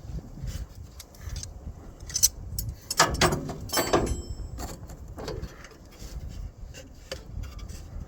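Wrench clinking and knocking against the metal coupling bolts, in a few irregular bursts with the busiest stretch a few seconds in.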